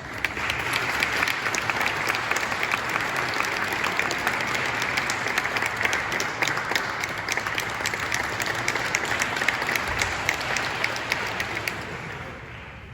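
Concert audience applauding steadily, dense claps that die away over the last second or two.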